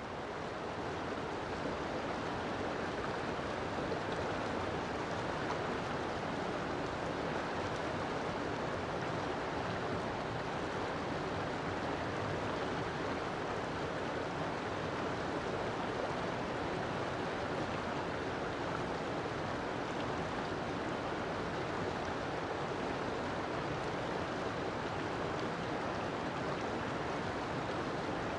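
River water flowing steadily, an even rushing without any lapses, fading in over the first two seconds.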